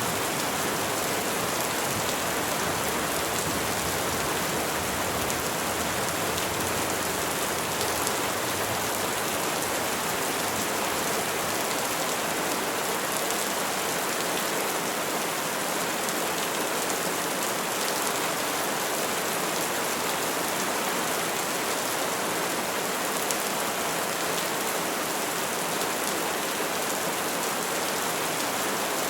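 Steady rain falling on trees, an even hiss of many drops with no let-up.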